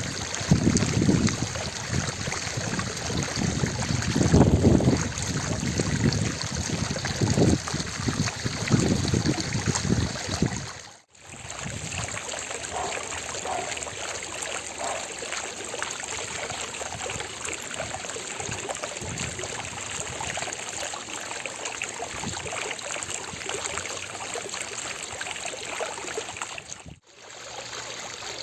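Fountain water splashing and trickling continuously, with heavy low rumbling gusts through the first ten seconds. The sound briefly fades out and back in about eleven seconds in and again near the end.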